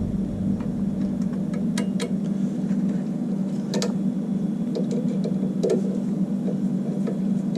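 Water running into an electric water heater tank as it refills: a steady low rumble of flow through the pipes, with a few light clicks.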